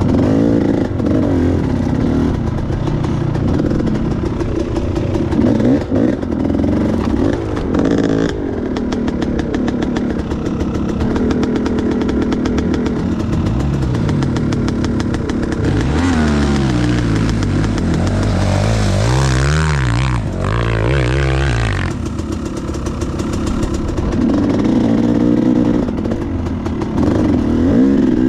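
Enduro motorcycle engine running under load, its pitch rising and falling as the throttle is worked, with a harder stretch of revving roughly two-thirds of the way through.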